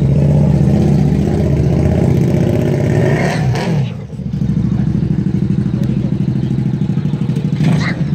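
Dodge Challenger SRT Hellcat's supercharged 6.2-litre Hemi V8 idling with a steady, lumpy beat. Its pitch briefly swells and drops a little over three seconds in, then it settles back to idle.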